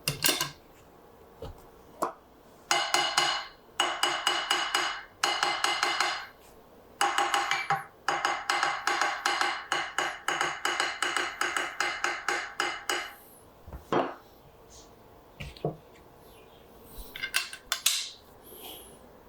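Hand file worked back and forth in quick strokes, about five a second, with a metallic ring on each stroke. It comes in three runs, the longest lasting about six seconds, with a few separate knocks between them.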